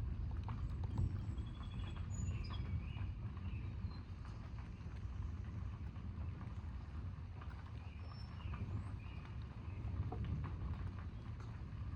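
Distant thunder rumbling low and continuously, swelling slightly near the end, with faint bird chirps over it.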